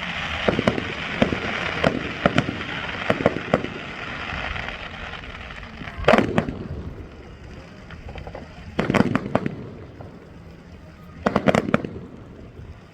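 Fireworks going off: a hissing, crackling volley of cracks for the first few seconds, then separate clusters of sharp bangs about six, nine and eleven and a half seconds in.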